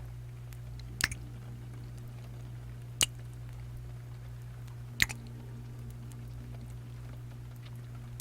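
Close-up wet kissing sounds: single lip smacks about every two seconds, over a steady low hum.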